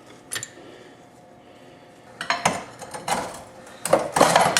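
Rusted rear subframe cross member clanking and scraping against metal as it is lowered out of the car on a jack: a single clink, then from about halfway in a run of metallic clanks and scrapes that grows louder toward the end.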